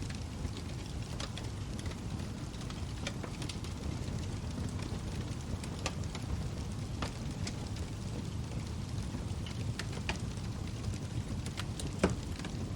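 Log fire burning: a steady low rumble of flames with scattered sharp crackles and pops, the loudest pop near the end.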